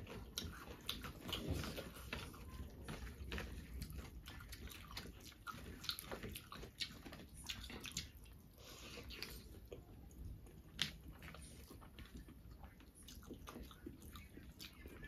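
A person chewing and biting pork close to the microphone: irregular wet mouth clicks and smacks, with one sharper click about eleven seconds in.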